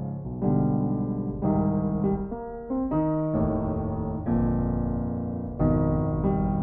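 Background piano music: sustained chords struck one after another, changing about every second.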